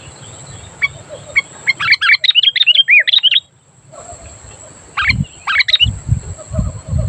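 Sooty-headed bulbul singing: a few short chirps, then a quick run of bubbly rising and falling notes about two seconds in, and two more short phrases around five seconds in. Low thumps sound from about five seconds on.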